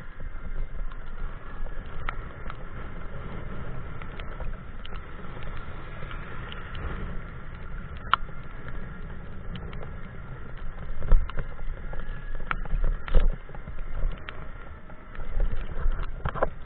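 Bicycle ridden on wet pavement in pouring rain: a steady rumble of wind and tyre noise on the camera's microphone, with scattered sharp taps throughout and a few louder knocks past the middle.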